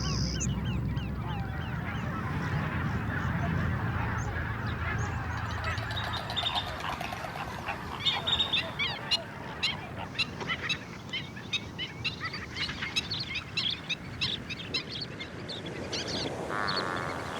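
A large flock of waterbirds calling at once, a dense mass of many short overlapping calls. A low rumble sits under the first six seconds or so and then fades away.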